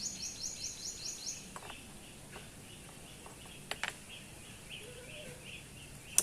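Small bird chirping: a quick run of repeated high chirps that ends about a second and a half in, then a string of shorter repeated notes about three a second. A few sharp clicks near the middle and one at the end.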